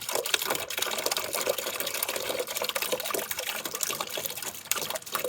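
Washer fluid from a full windscreen washer reservoir running out of the open pump and filter port in a steady stream and splattering, with many small irregular splashes.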